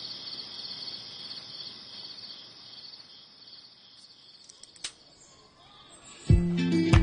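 Insects chirping in a pulsing high trill that fades away over the first few seconds. It is followed by a single sharp click, and music with plucked notes and a beat comes in near the end.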